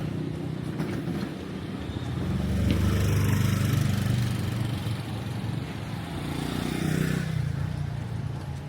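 Street traffic: motor vehicle engines passing close by, loudest a few seconds in and again near the end.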